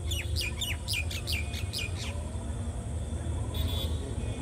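A bird calling a quick run of about nine sharply falling whistled notes over roughly two seconds, over a low steady rumble.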